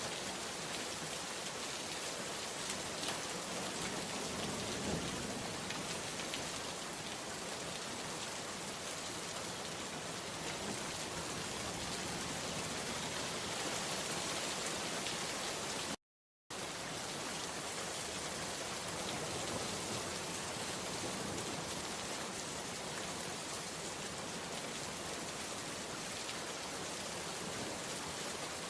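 Steady rain falling, with the patter of individual drops on a surface. The sound cuts out completely for about half a second just past the middle.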